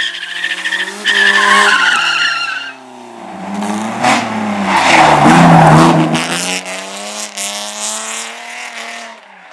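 Race car at speed: tyres squealing and skidding for the first couple of seconds over the engine, then a loud rush as a car passes close around the middle, its engine revving up through the gears until the sound cuts off near the end.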